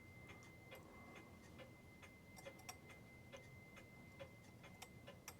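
New England Clock Company pendulum clock movement ticking faintly and evenly, about two ticks a second, as its crutch is set so that the tick and tock come out even and the clock is in beat. A faint steady high tone runs underneath.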